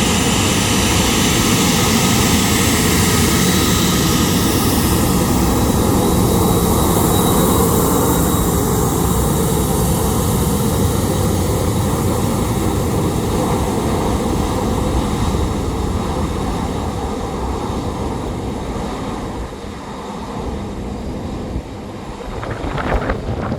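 A Boeing 737-800's CFM56-7B turbofan engines at taxi power, a steady jet rush and whine. The noise grows fainter and loses its high hiss as the airliner taxis away. A brief sharper noise comes near the end.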